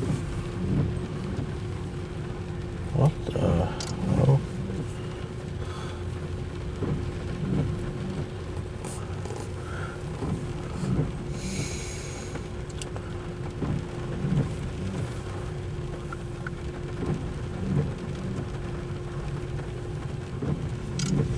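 A CSX intermodal train's double-stack container well cars rolling past: a steady rumble of steel wheels on rail, with recurring clunks, often in pairs, as wheel sets pass, and a steady hum underneath. Heard from inside a car's cabin.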